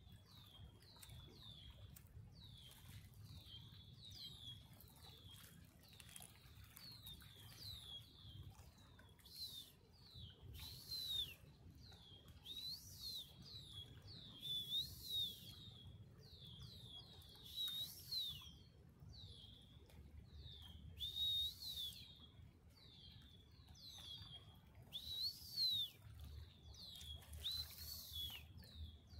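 Small birds chirping over and over, short high notes a few each second, with louder clusters of chirps every few seconds. A faint low rumble runs underneath.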